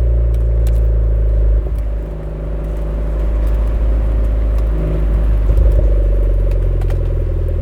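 Suzuki Swift Sport (ZC33S) 1.4-litre turbo four-cylinder with a Fujitsubo aftermarket muffler, droning steadily under way. About one and a half seconds in, the note drops suddenly as the throttle lifts, then builds back up over a few seconds and holds steady.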